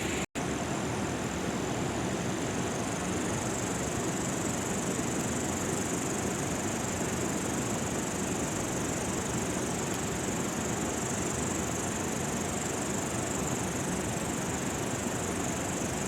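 Steady rain falling around an open bamboo hut, an even hiss with a steady high-pitched drone over it. The sound drops out for a moment just after the start.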